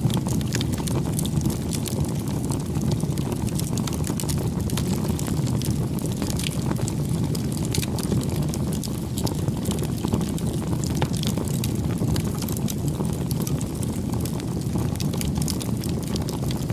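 Campfire burning: a steady low rumble of flame with frequent small, irregular crackles and pops from the burning wood.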